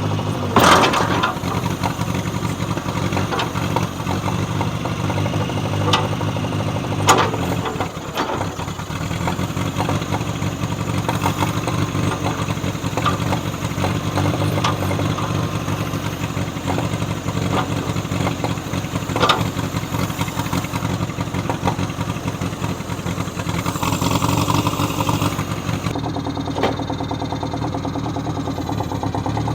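John Deere 1010 tractor's carbureted gasoline engine running steadily, with a few sharp knocks or clanks now and then and a brief louder stretch near the end.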